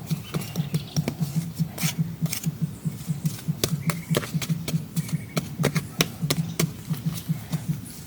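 Sharp irregular clicks and light knocks, several a second, over a steady low hum.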